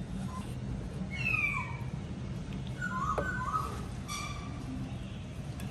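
An animal's short, high-pitched calls, several times, with falling and level pitch, over a steady low hum.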